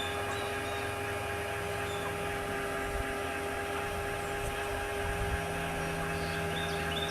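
A steady hum made of several held tones that do not change, with a few faint short high chirps near the start and again near the end.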